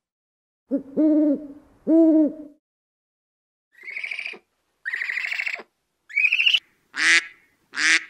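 Burrowing owl giving two low, drawn-out hoots about a second apart. These are followed by a run of five harsher, higher-pitched honking calls in quick succession, typical of Egyptian geese.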